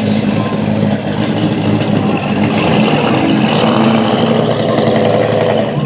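Car engine running loudly and revving as a car pulls out, building up over the first few seconds and falling away at the end.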